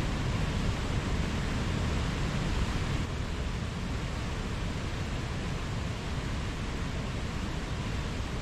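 Mountain stream running steadily, a continuous wash of water that turns slightly quieter about three seconds in.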